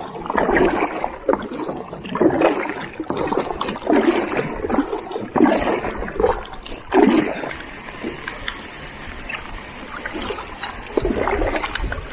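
Paddle strokes swishing and splashing through the water, roughly one every second, for about the first seven seconds. After that there is quieter steady water noise, with another swish near the end.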